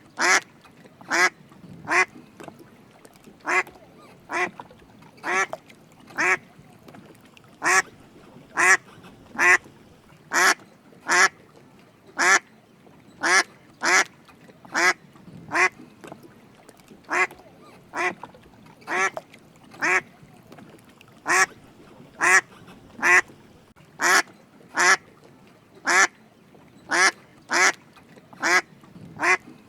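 Mallard drake quacking: short, single quacks repeated about once a second in a steady series.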